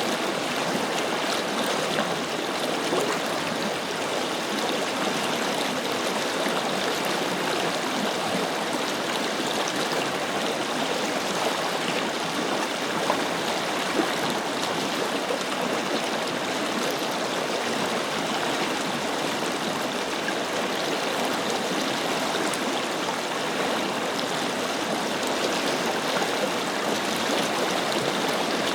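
Forest river flowing: a steady rush of water over stones with small splashes and gurgles.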